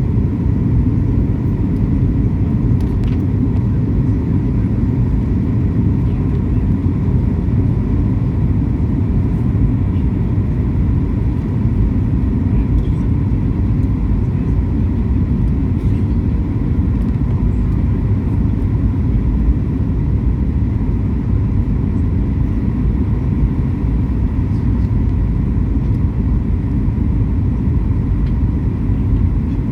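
Airliner cabin noise: a steady low rumble of engines and airflow with a faint, even whine on top, unchanging throughout.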